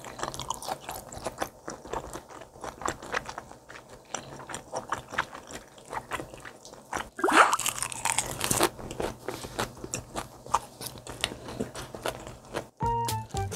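Close-miked chewing and crunching of raw yellowtail sashimi wrapped in crisp dried seaweed (gim), with many small wet clicks and crackles. A louder burst of crunching comes a little past the middle.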